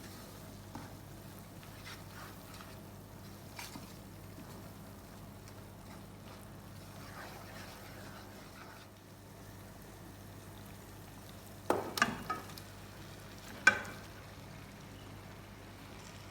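Food sizzling faintly in a cooking pot over a steady low hum. A utensil knocks against the pot three times in quick succession near the end, then once more, louder.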